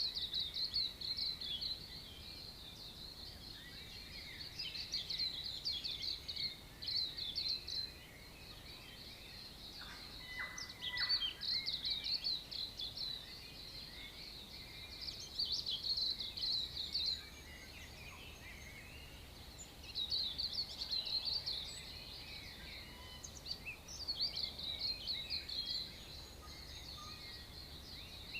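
Dawn chorus of New Zealand birds: dense, high chirping and chattering that comes in bursts of a few seconds with quieter gaps between.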